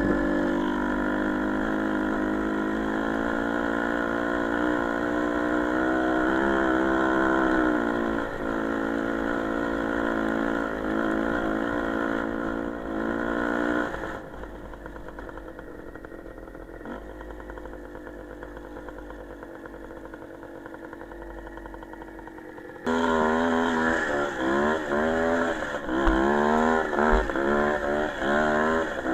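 Small motorcycle engine running at steady revs, dropping to a quieter, duller note about halfway through. It comes back suddenly louder near the end, its pitch rising and falling quickly with the throttle.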